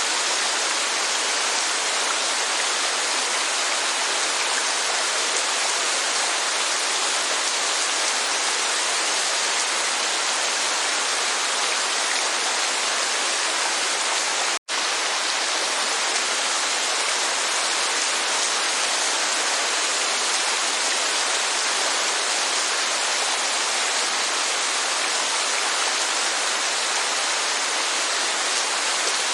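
Steady rain and falling water making an even, unbroken hiss. It cuts out completely for a split second about halfway through, like a splice in a looped recording.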